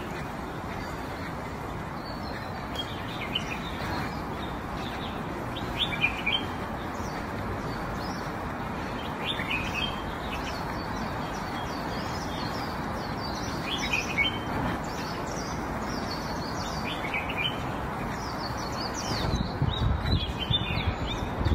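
Small birds chirping on and off over a steady outdoor background hiss, with a cluster of louder short sounds near the end.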